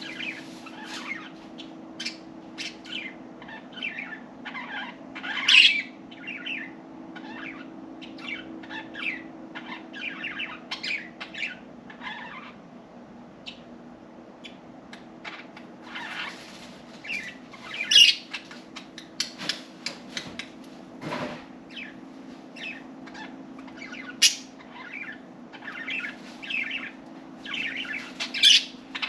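Budgerigars chirping and chattering in a quick run of short, sharp calls, a few louder squawks standing out, over a steady low hum.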